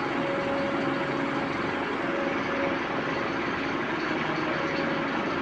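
A vehicle engine running steadily at idle, an even mechanical hum with no change in speed.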